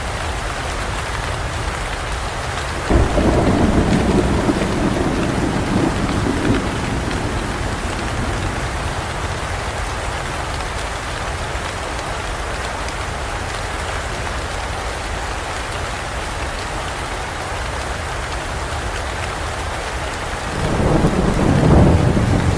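Steady rain with thunder. A clap breaks out suddenly about three seconds in and rumbles for a few seconds. A second rumble swells up near the end.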